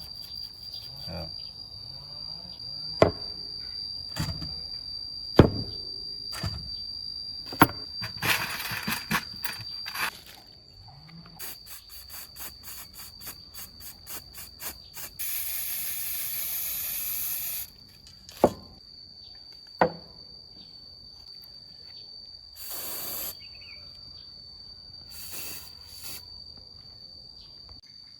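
Workshop handling sounds: a few sharp clicks and knocks, several short hissing bursts, and a steady high-pitched whine underneath.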